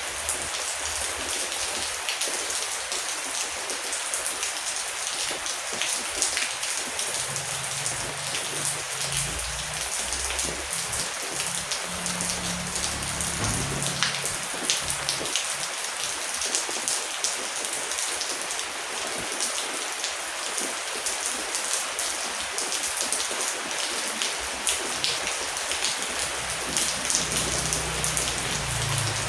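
Heavy rain falling steadily, a dense hiss with many individual drops ticking sharply on a hard surface. A low rumble swells and fades twice beneath it.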